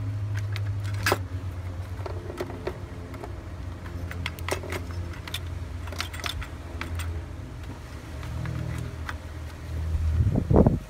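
Honda Odyssey's 3.5-litre V6 running at a steady idle with a low hum, with light clicks and taps over it. About ten seconds in, a loud rustle of handling noise comes in.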